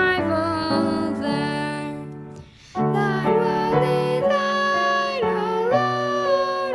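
A hymn sung by a high voice over keyboard or piano accompaniment, with long held notes; there is a short break between phrases about two and a half seconds in.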